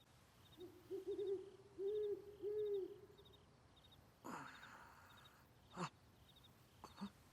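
Owl hooting, a run of short, low hoots that each rise and fall, over faint, steady, repeating high chirps; a brief whoosh follows about four seconds in.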